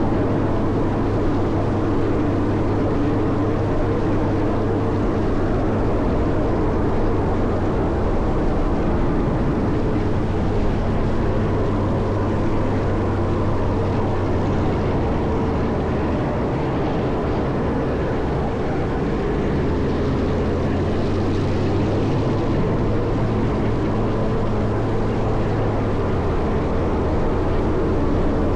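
Caterpillar 140M motor grader's diesel engine running steadily while plowing snow, its pitch shifting slightly near the end.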